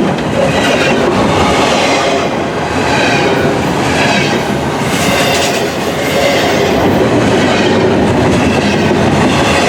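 Freight train cars rolling steadily past at close range: a loud, continuous rumble of steel wheels on the rails.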